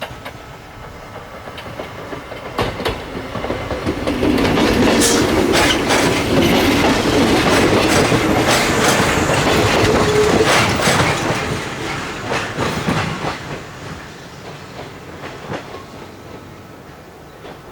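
The Hakaru-kun track inspection train passing by, its wheels clacking over the rail joints. It rises to a loud pass about four seconds in and fades away after about twelve seconds.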